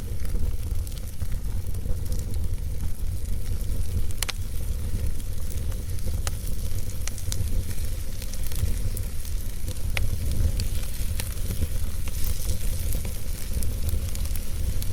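Campfire crackling, with scattered sharp pops and snaps over a steady hiss, and a constant low wind rumble underneath.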